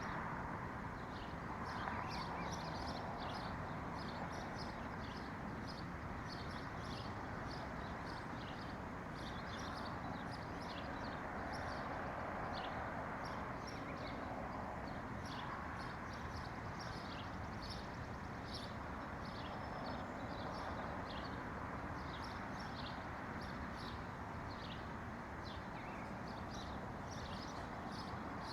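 Small birds chirping in a steady stream of short, quick high chirps, several overlapping at once, over a steady low rushing background.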